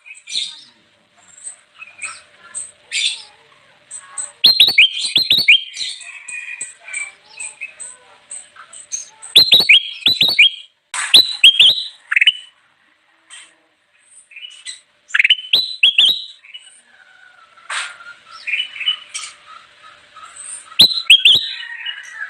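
Kutilang emas (bulbul) song: loud, repeated bursts of quick, sharp chirping notes every few seconds, with softer twittering between them.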